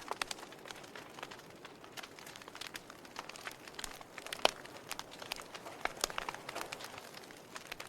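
Wood fire burning in a fireplace: logs crackling and popping at irregular moments over a soft steady hiss, with one sharper pop a little past four seconds in.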